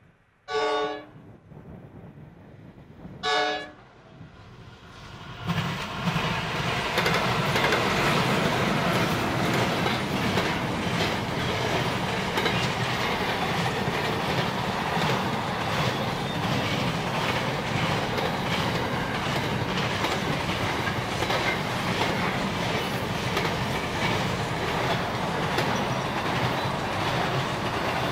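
A diesel freight locomotive's horn sounds two short blasts about three seconds apart. Then the Pacific National container train arrives, about five seconds in, and its container wagons roll past with a steady rumble and a rhythmic clickety-clack of wheels over the rail joints.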